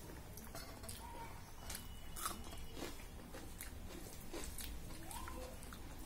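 A person chewing a mouthful of rice and curry, with soft irregular wet mouth clicks, and fingers squishing rice and dal on a steel plate.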